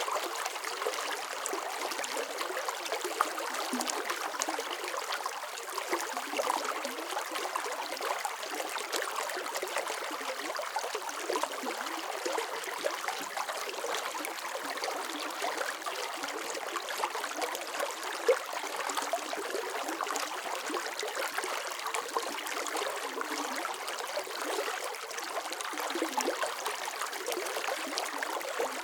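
Running water flowing steadily, an even rush of fine splashes with almost no deep rumble.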